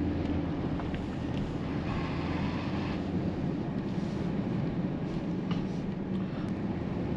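Vehicle running while driving: a steady low engine hum with road noise.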